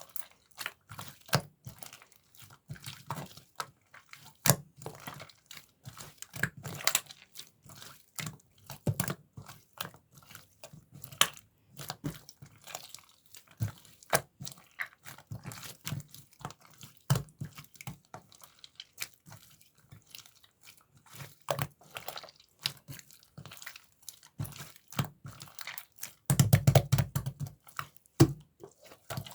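Mint-chocolate slime being squished, folded and poked by hand: a dense run of sticky clicks and small pops, with short, louder squelches every second or two and the loudest squelching near the end.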